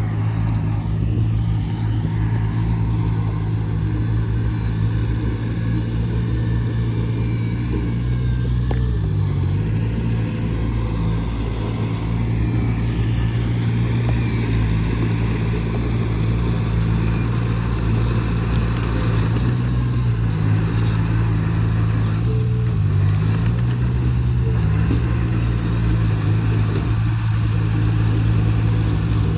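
Heavy construction machine's diesel engine running steadily under load, its pitch dipping briefly about a third of the way in and twice more near the end.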